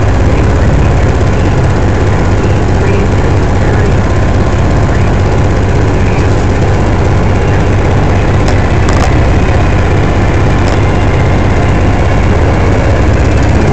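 Vehicle engine idling with a loud, steady low hum close to the microphone.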